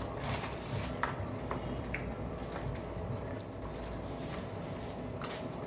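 Steady low room hum with a few faint, short clicks and taps from food and packaging being handled while people eat.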